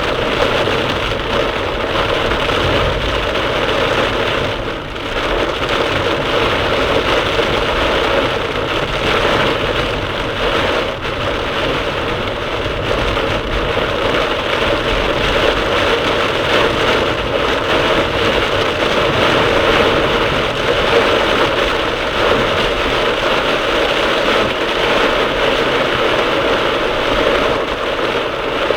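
Torrential cloudburst rain pounding steadily on a moving car, picked up by its dashcam, with the car's road noise underneath.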